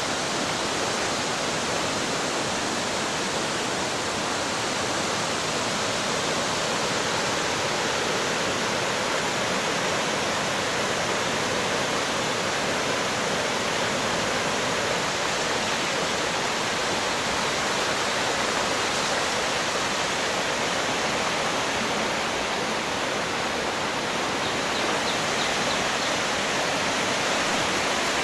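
Floodwater rushing: a steady, unbroken rush of water.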